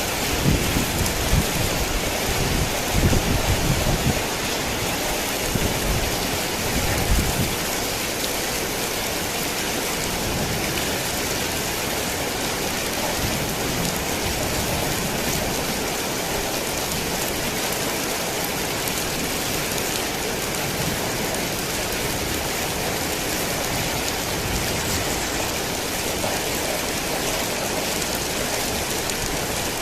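Heavy rain falling in a steady dense hiss, with a low rumble of thunder through the first seven seconds or so that then fades, leaving only the rain.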